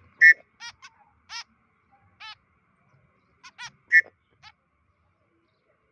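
White-breasted woodswallow (kekep babi) calling: about ten short, clipped calls in irregular bursts, two of them much louder than the rest.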